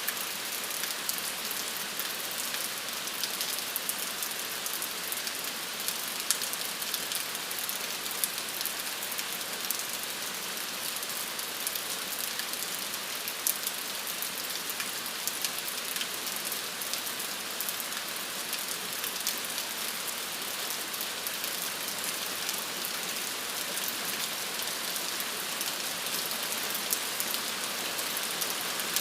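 Steady rain falling on a surface, an even hiss dotted with many small drop impacts.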